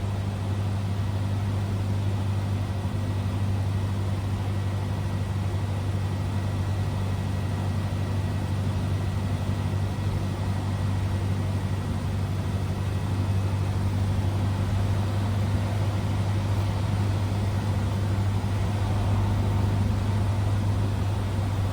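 Cessna 172R's four-cylinder Lycoming engine running at a steady speed, heard from inside the cockpit as an even low drone with a faint high steady tone.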